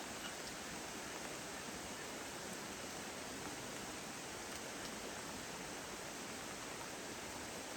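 Steady heavy rain falling: an even hiss, with a few faint ticks of drops.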